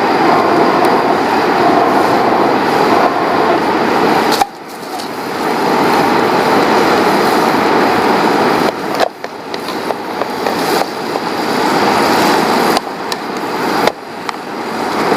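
Ground green chilies sizzling as they are sautéed in hot oil for sambal, a steady loud frying hiss that drops off abruptly about a third of the way in, again past the middle and once more near the end before picking back up.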